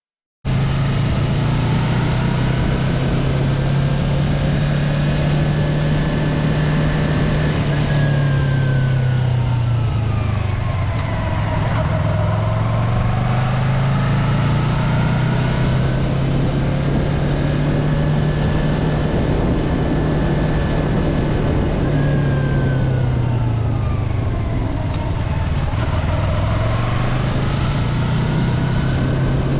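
Engine running steadily and loudly, its pitch sagging slowly and rising back twice.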